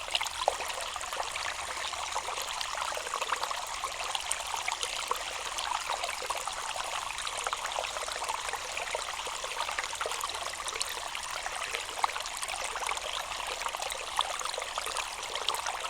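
Water trickling and splashing steadily from a bamboo water feature, with a few brief sharp ticks, one about half a second in and one near twelve seconds.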